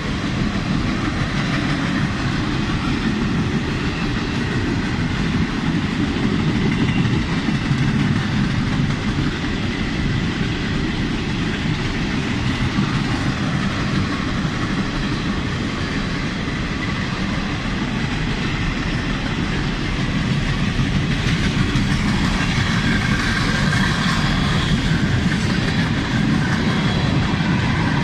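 Freight train cars rolling past on the rails, a steady, fairly loud run of wheel-on-track noise that gets somewhat louder and brighter about three-quarters of the way through.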